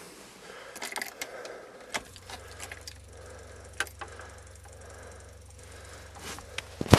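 Faint clicks and knocks with a light rattle, like keys being handled, over a steady low hum that sets in about two seconds in. Right at the end the cold Rover V8 starts to crank over loudly.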